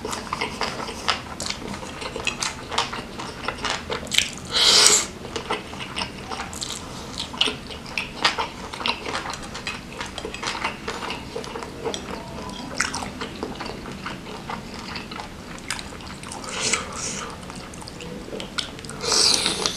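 Close-miked wet chewing and mouth smacking of a person eating rice soaked in curry sauce and chicken satay, with many short clicks throughout. There are louder noisy bursts about five seconds in and again near the end.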